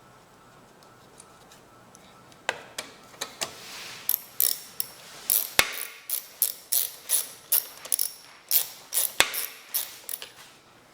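Ratchet wrench clicking in short repeated strokes, about two or three a second, starting about two and a half seconds in: a fastener being driven home while the air filter housing goes back together on a Briggs & Stratton mower engine.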